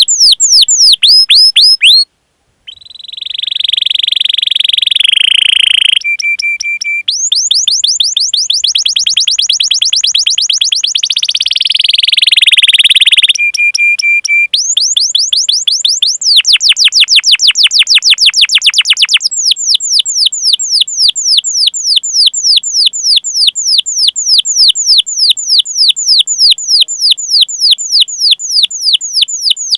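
Domestic canary singing a long, loud song: fast rolling trills of rapidly repeated high, downward-sweeping chirps. A held whistled note comes a few seconds in and short lower whistles come twice. The chirps slow into a steadier run of repeated calls in the second half.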